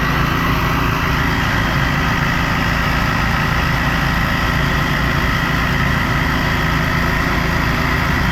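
An engine idling steadily at an even pitch, with a steady high whine over it.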